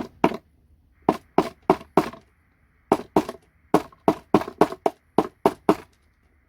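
About fifteen sharp knocks in quick groups of two to four: a tool being driven or forced into a gold-pin computer connector to wedge apart its two metal cover sheets. The knocks stop near the end.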